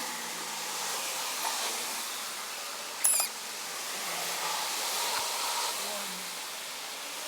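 Steady sizzling hiss of chicken wings grilling over charcoal, with one short, sharp high squeak about three seconds in.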